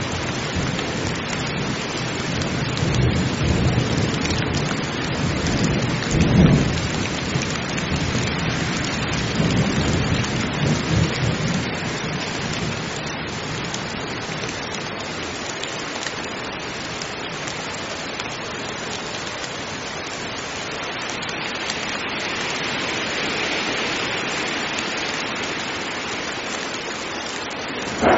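Heavy rain falling steadily, with thunder rumbling low through the first half, loudest about six seconds in.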